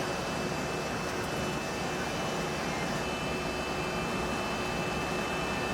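Steady hiss and hum of an Airbus A320 passenger cabin, from its jet engines and air conditioning, with a faint high steady whine over it.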